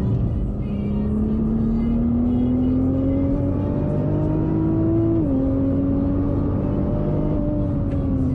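Nissan GT-R R35's twin-turbo V6 heard from inside the cabin under acceleration, its pitch rising steadily for about five seconds. It drops sharply at a gear change, then sinks slowly as the car slows.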